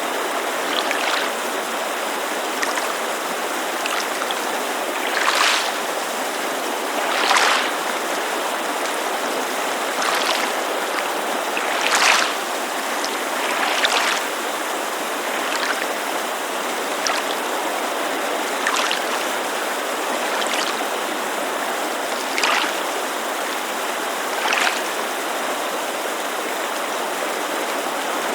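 Small waves lapping at a lakeshore, a splash every couple of seconds, over the steady rush of a mountain creek.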